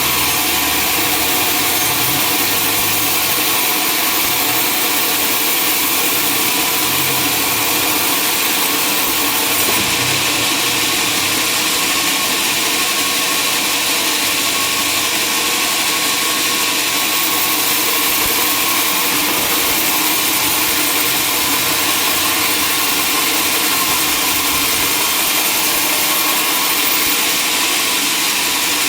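Sawmill saw running steadily as it cuts through timber: a continuous loud machine drone and hiss, the high hiss brightening for stretches.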